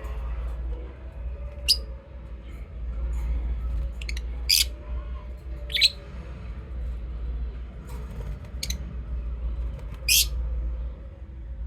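Lovebirds giving about five short, shrill chirps at scattered intervals, over a steady low hum.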